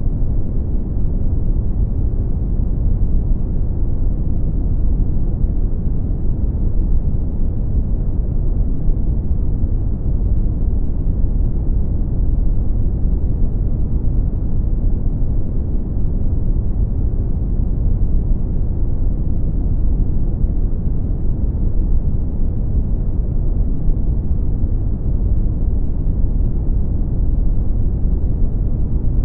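Steady brown noise: a deep, even rumble-like hiss, strongest in the bass and rolling off toward the treble, with no changes.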